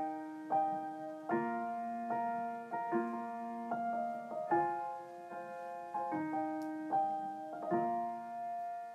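Solo piano playing slow, sustained chords and single notes, a new one struck about every half second to a second, as the instrumental intro to a sung ballad.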